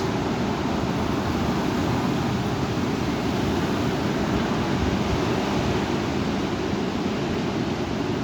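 Heavy wind of a severe thunderstorm, a steady rushing noise without let-up.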